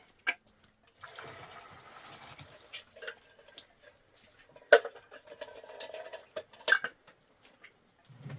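Four sharp knocks or clacks spread over several seconds amid light rustling and handling noise.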